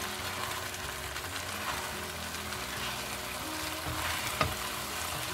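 Tofu, shrimp and egg mixture sizzling in a nonstick pan as a spatula stirs and scrapes through it, with one sharp knock of the spatula against the pan about four seconds in. The eggs are setting and thickening the sauce.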